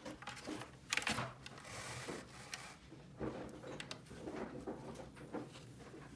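Irregular clicks, taps and rustling of small objects being handled, with a louder cluster of clicks about a second in.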